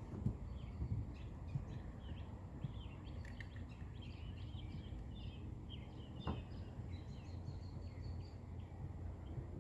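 Small birds chirping and singing in quick, repeated short calls over a steady low rumble, with a few light knocks, the clearest about six seconds in.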